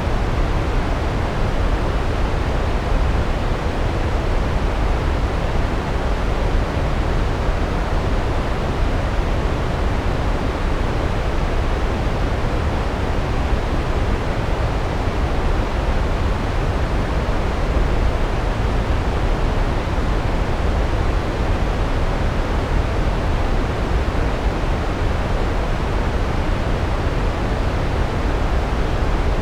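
Large waterfall: a steady, loud rush of falling water, heaviest in the low end, with no change throughout.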